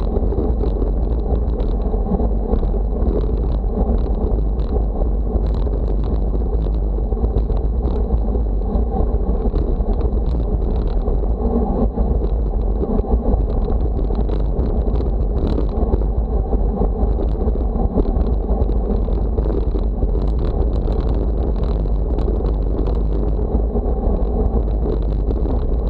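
Steady wind rumble on the microphone with continuous moving noise underneath and a faint, steady high whine over it.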